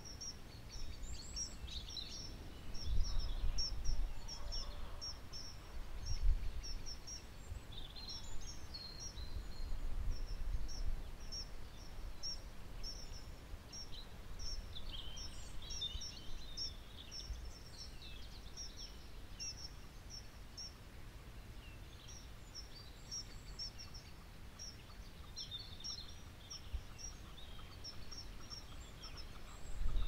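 Birds singing in the countryside: a steady run of short, high chirps repeated in quick little groups throughout, with other calls mixed in. Low rumbling gusts come and go, loudest in the first ten seconds.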